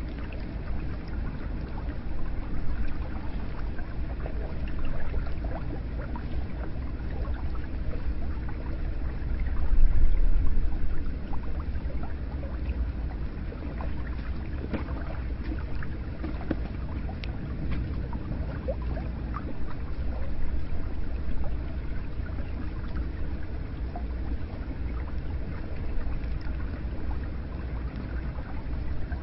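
Hot spring water flowing into an onsen bath: a steady, low splashing wash with scattered small drips, swelling briefly about ten seconds in.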